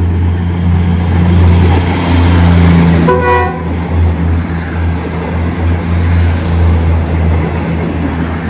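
Diesel passenger railcar train passing close by with a steady low rumble of engines and wheels, and a short toot of its horn about three seconds in.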